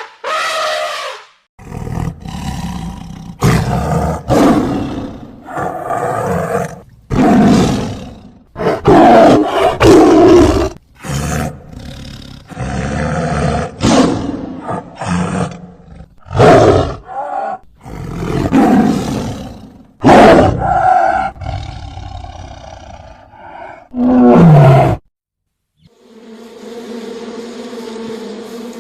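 A long series of loud big-cat roars and growls, each call lasting a second or two, some falling in pitch. Near the end the calls stop and a steady buzzing drone begins.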